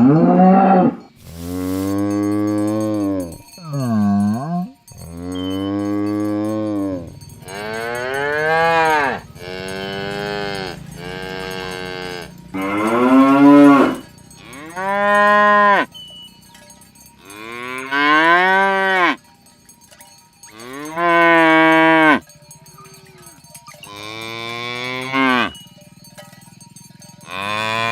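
Cows mooing over and over, about a dozen loud calls of one to two seconds each with short gaps between them. Many calls rise and then fall in pitch.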